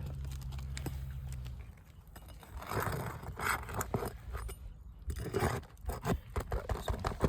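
Irregular scraping, rustling and sharp clicks from brittle asphalt roofing shingles being handled and worked loose. A low steady hum runs under the first second and a half, then cuts off.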